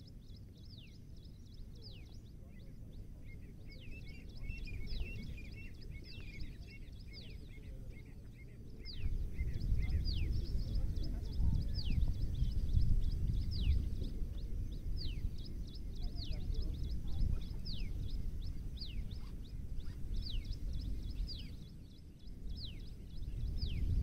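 Birds calling with short, high whistled notes that fall quickly in pitch, repeated over and over, with a burst of chattering notes in the first several seconds. From about nine seconds in, a louder low rumble of wind buffets the microphone.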